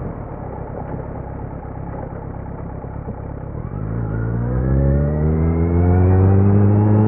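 Kawasaki Z900's inline-four exhaust through a Leo Vince muffler with no dB killer, running low and uneven at first. About four seconds in it accelerates, its pitch rising steadily and then levelling off near the end.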